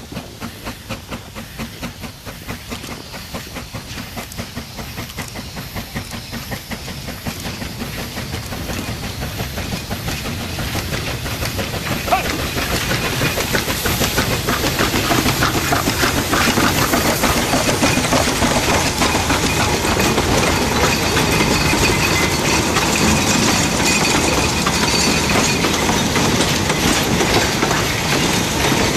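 C2 narrow-gauge steam locomotive hauling a coal train, its exhaust chuffing in a quick even rhythm. The sound grows steadily louder until the chuffing is swamped by the clacking wheels and rattling wagons.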